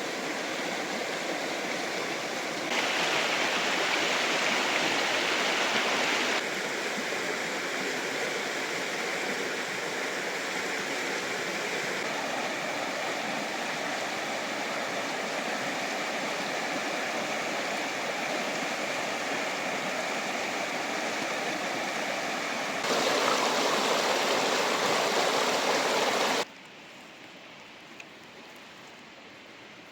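Rushing river water, a steady hiss with no pitch to it. It jumps abruptly louder about 3 seconds in, falls back about 6 seconds in, jumps up again near 23 seconds, and drops to a much quieter rush about 26 seconds in.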